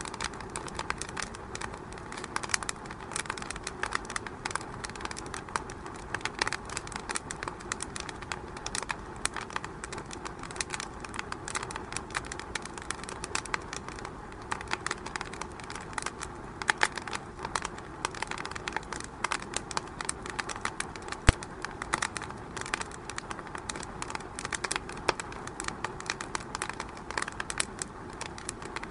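Wood fire crackling in a fireplace: a steady hiss under dense, irregular snaps and pops, with one sharper pop about three-quarters of the way through.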